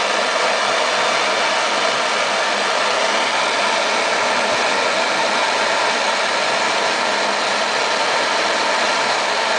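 Handheld torch burning steadily with a loud, even hiss as its flame heats a freshly wrapped Kanthal coil. It is very loud.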